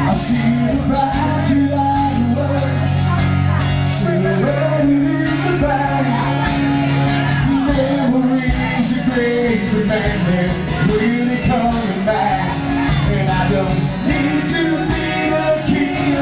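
Rock band playing live in a bar, with a singer over the loud, steady music.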